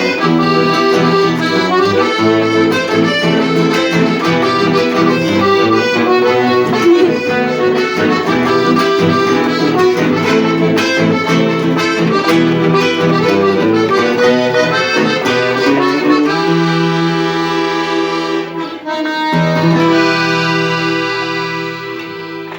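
Accordion music with no singing; from about two-thirds of the way through it plays long held chords, and it fades out at the end.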